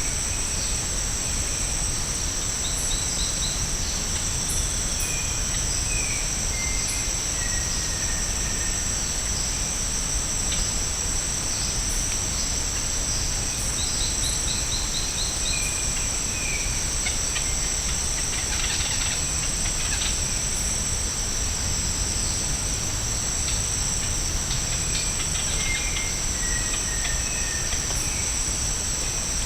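Tropical rainforest insects (cicadas or katydids) droning steadily in two shrill high-pitched bands, over a low steady rumble. Scattered bird calls come through: short falling whistles several times, and twice a quick run of about five high chips.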